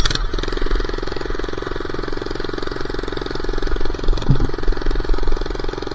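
Minibike's small single-cylinder engine running steadily at speed with a fast, even pulsing, after a single sharp pop at the very start.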